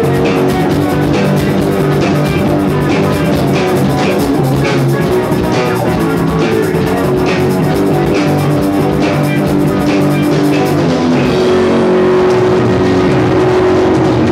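Rock band playing, with a drum kit beating steadily under guitar. About eleven seconds in the drums stop and a single held note rings on.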